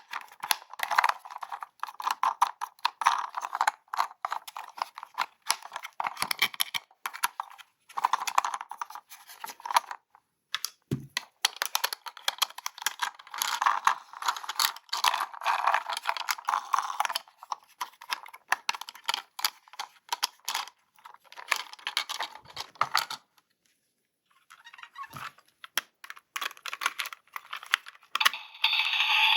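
Plastic toy packaging being handled and unpacked: rapid crinkling and clicking in spurts, with two short pauses. A steadier rasping scrape starts near the end.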